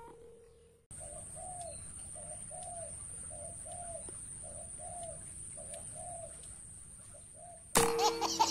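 Spotted dove cooing, a string of short arching coos repeated over and over, with a steady high whine behind. Near the end a sudden loud burst with ringing tones cuts in.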